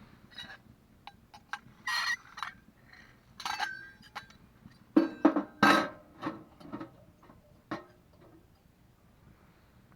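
Camping gear being handled and packed: a series of clinks and clatters, the loudest cluster about five to six seconds in.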